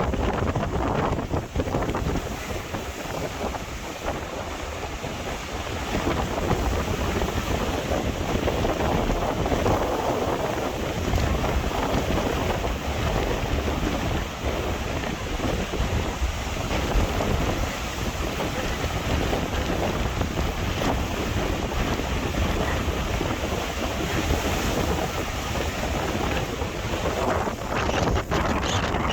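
Strong typhoon wind buffeting the microphone with a heavy low rumble, over rough sea waves crashing and surging.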